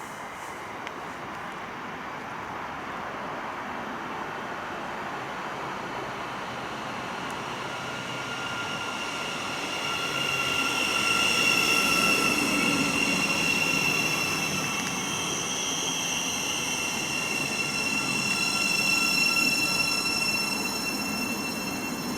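Train approaching and running along the track, its rumble building steadily. From about eight seconds in, a high-pitched whine made of several steady tones comes in over it and stays to the end.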